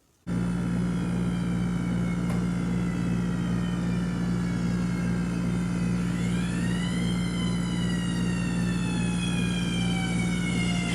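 Fire engine's Federal Q mechanical siren, starting abruptly a moment in with its pitch slowly coasting down, wound up again about six seconds in and coasting down once more, over a steady low hum.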